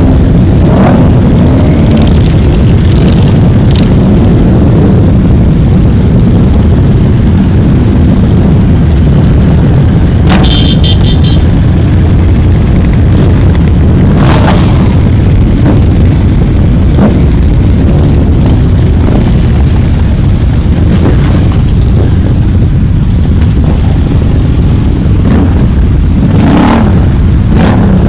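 Loud, continuous rumble of many motorcycle engines, with individual bikes revving and passing. A short run of beeps, likely a horn, sounds about ten seconds in.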